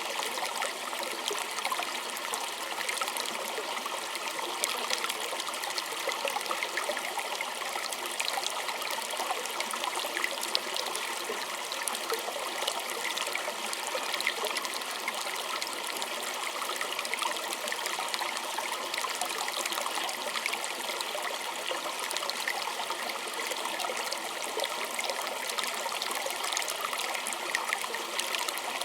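A small stream trickling and babbling over stones, a steady splashy flow with many small drips and flicks of water.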